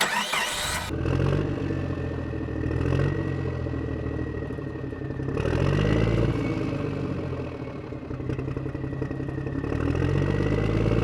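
Small tractor motor running steadily with a high whine, its engine-like note rising and falling in pitch several times. A brief clatter sounds at the very start.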